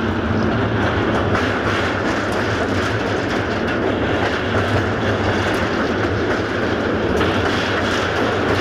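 Passenger train rolling steadily, heard from on board: a continuous rumble of the wheels on the rails.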